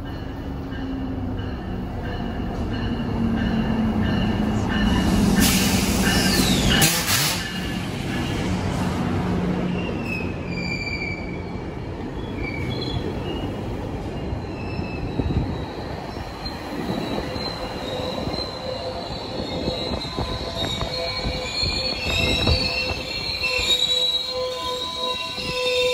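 GO Transit commuter train of bilevel coaches pulling into a station platform, a low rumble building to its loudest as the head end passes about five to seven seconds in. The coaches then roll past, with high wheel and brake squeals that come and go and build toward the end as the train slows to a stop.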